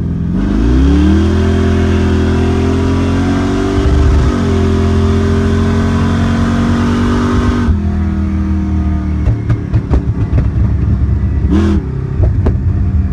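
Supercharged drag-car engine with a roots-type blower, 730 horsepower, pulling hard under full throttle, heard from inside the car. The revs climb, dip briefly about four seconds in, and hold high until the throttle is cut sharply near the eight-second mark. After that the engine runs low and rough with crackles and pops from the exhaust and a short blip of revs near the end.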